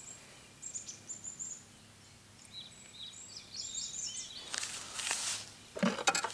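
Small birds chirping in short, high twittering phrases over quiet outdoor background, with a couple of brief rustles near the end.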